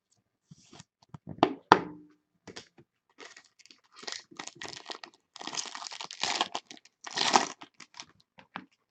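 Card packaging being handled and torn open: a couple of sharp clicks, then a run of crinkling and tearing of a wrapper.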